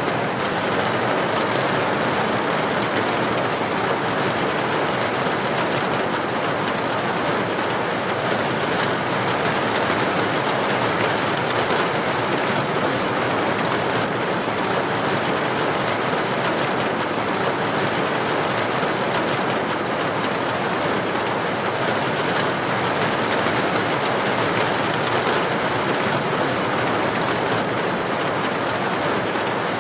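Heavy rain falling steadily on a street, an even, unbroken hiss.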